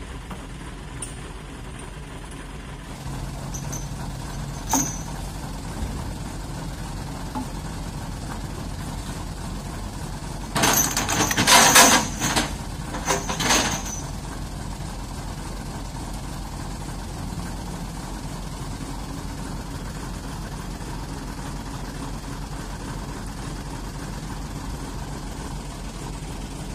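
Heavy diesel engine running steadily at idle, with two loud hissing bursts of air about halfway through.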